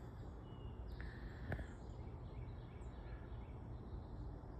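Steady outdoor background noise with a low rumble, over which small birds give a few faint, brief chirps; a single soft click about a second and a half in.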